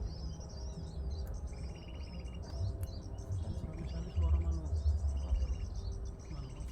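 Small songbird calls: short buzzy trills repeating about once a second, mixed with quick high up-and-down chirps, over a low rumble.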